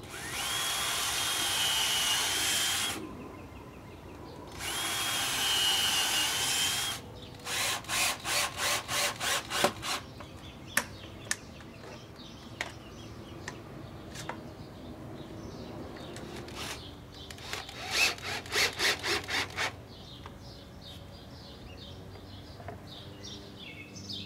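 A power drill runs twice, about three seconds each time, with a steady whine, while wood is worked. Later come two runs of rhythmic hand-saw strokes, about three a second, with scattered knocks between them.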